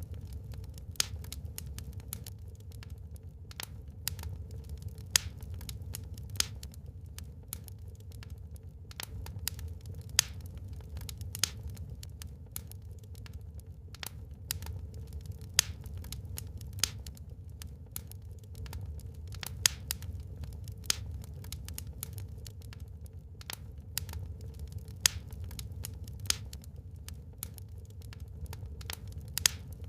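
Wood fire burning in a fireplace, crackling with irregular sharp pops and snaps, a few louder ones every second or two, over a steady low rumble.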